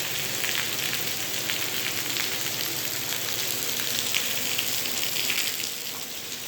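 Steady rain falling, a dense crackle of many small drops, easing slightly near the end.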